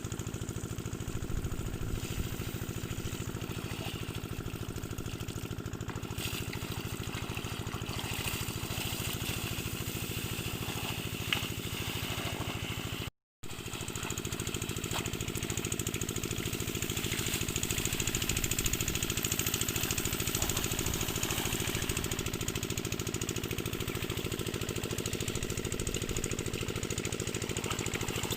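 Single-cylinder 8 HP diesel engine running steadily, driving an irrigation water pump. The sound cuts out for a moment about thirteen seconds in.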